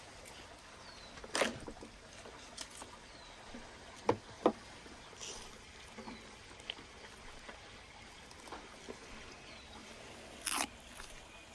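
Knife work while deboning a lamb: quiet handling of meat and bone with a few sharp clicks and taps, two of them close together about four seconds in and another near the end.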